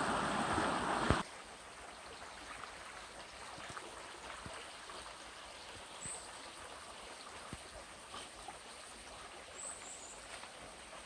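Stream water rushing loudly, cut off abruptly about a second in; after that, quieter outdoor ambience with faint running water, a few light ticks and brief high bird chirps midway and near the end.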